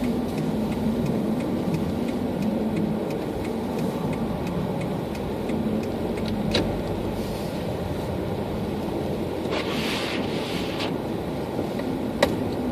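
Car driving in snow: steady engine hum and road noise. Two sharp clicks, about six and twelve seconds in, and a couple of short hissing swishes near ten seconds.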